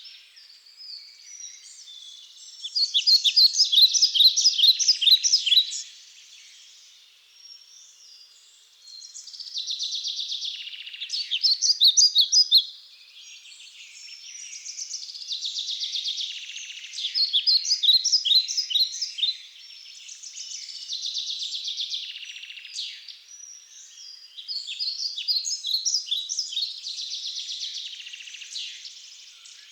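Songbirds singing, high-pitched phrases of quick chirping notes that come every few seconds with short pauses between them.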